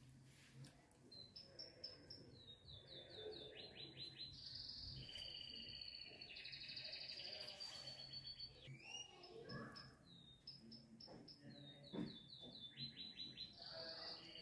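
Faint bird chirps and rapid trills, sung in short repeated phrases.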